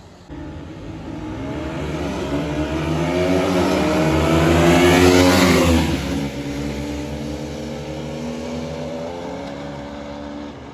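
Two motorcycles, a KTM and a Bajaj Pulsar RS200, accelerating hard in a drag race. The engines rise in pitch and loudness as they approach and pass close by about five and a half seconds in, then drop in pitch and fade as they pull away.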